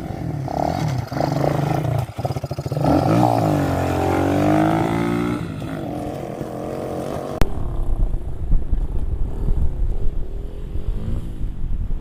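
Pit bike engine revving, its pitch rising and falling as the rider works the throttle. About seven seconds in, the sound changes abruptly to a lower, rougher rumble.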